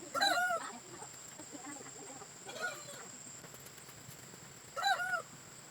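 Farm poultry calling in short, arching calls: a loud one at the start, a fainter one midway and another loud one near the end, over a steady high-pitched tone.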